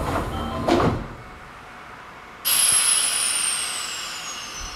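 Nankai Koya Line train standing at a station: a short clunk about a second in as the doors shut, then a sudden loud hiss of compressed air with a thin whistle falling in pitch as the brakes release before departure.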